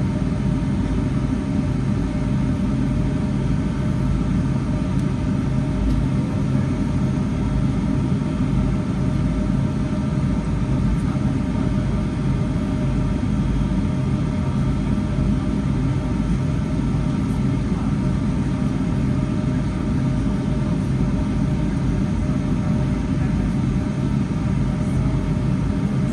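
Steady drone of a Boeing 757-300's jet engines and airflow, heard inside the passenger cabin, with a low rumble and a few steady hum tones.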